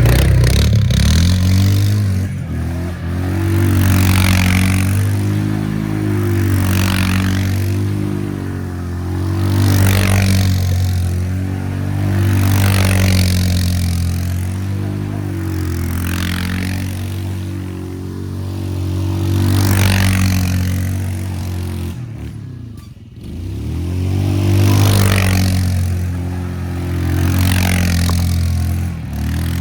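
A vehicle's engine running steadily under load, with a rushing noise that swells and fades about every three seconds. The engine note drops out briefly about two-thirds of the way through, then picks up again.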